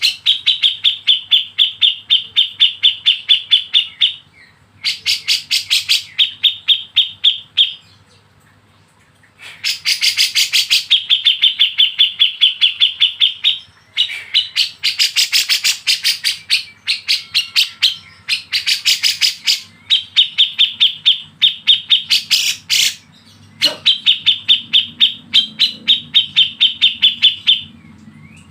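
A songbird calling in long runs of fast, evenly repeated sharp notes, about six a second, in phrases of a few seconds broken by short pauses. It is a tutor recording of the kind played for caged songbirds to copy.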